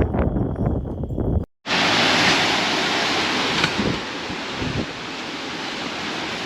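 Hurricane storm noise: wind gusting against the microphone, then after a brief cut a steady loud hiss of storm wind and rain.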